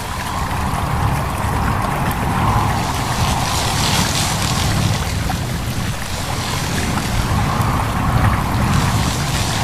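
A stream babbling steadily, with wind rustling through leaves that swells about four seconds in and again near the end.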